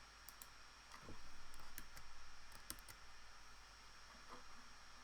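A few light computer mouse clicks at uneven intervals, over a faint steady hum with a thin high whine. A soft, low rustling sound swells about a second in and fades away over the next second and a half.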